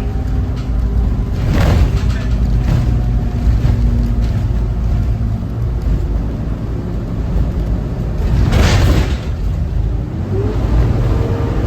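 Cummins ISB 6.7 diesel engine of a Thomas Saf-T-Liner C2 school bus running on the move, a deep steady rumble. Two short bursts of hiss, one under two seconds in and one about three quarters through, and a rising whine near the end.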